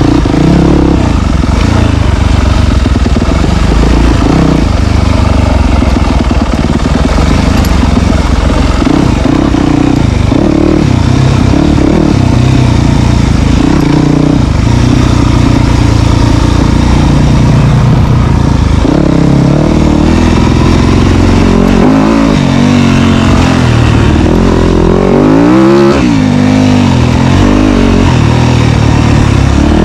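Dirt bike engine running hard and loud, revving up and down as the bike is ridden, with several quick rises and falls in pitch in the second half.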